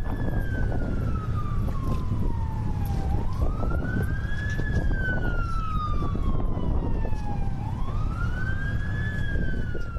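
Emergency vehicle siren on a slow wail, its pitch falling and rising twice, over a steady low rumble of street noise.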